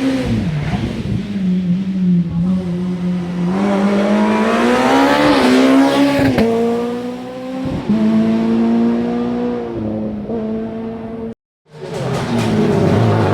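Rally car engine at full throttle, its pitch climbing as it accelerates and then dropping at an upshift about halfway through. Near the end the sound cuts off abruptly and another car's engine takes over.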